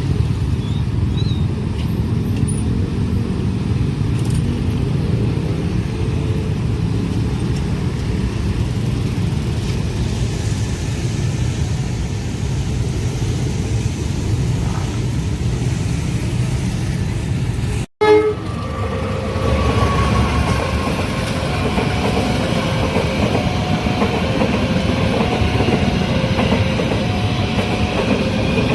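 A long train rumbling past on the rails. After a cut about two-thirds of the way through, another train runs past while a level-crossing warning alarm sounds a repeating two-note signal, with a short falling tone just after the cut.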